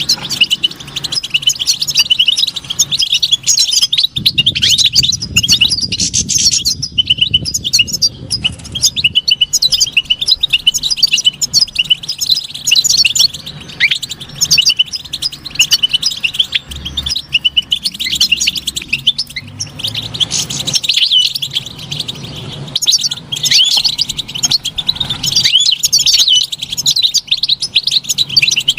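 European goldfinch singing: a fast, continuous twittering song of quick chirps and short up-and-down whistles.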